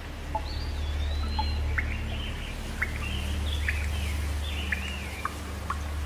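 Small birds chirping over steady rain, a busy run of short chirps and warbling calls, with a steady low rumble underneath.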